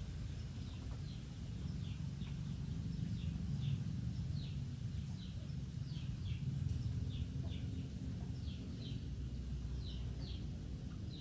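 A bird repeatedly gives short, high, falling chirps, one or two a second, over a steady low background rumble.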